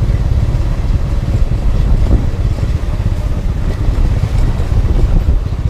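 Wind buffeting the microphone of a moving motorcycle, with the bike running underneath it as a steady low rumble.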